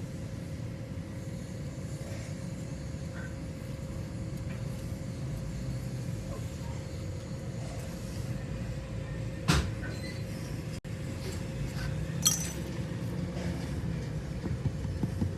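Steady hum of factory machinery with a faint held tone, broken by two sharp metallic clinks about three seconds apart past the middle.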